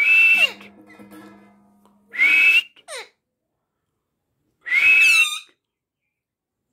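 Pet parrot giving three loud whistling calls, each under a second long and about two seconds apart, with sliding pitch.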